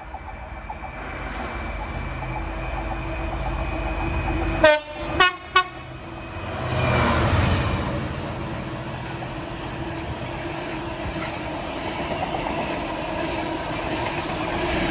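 A train approaching and sounding its horn in three short blasts about five seconds in, the first the loudest, then running past with a steady rumble.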